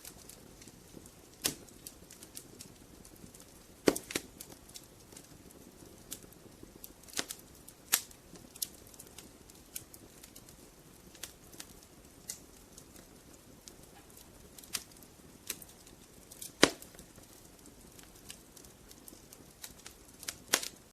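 Logs burning in a fireplace, crackling: irregular sharp pops and snaps over a faint low hiss, the loudest pops about four seconds in and a little past the middle.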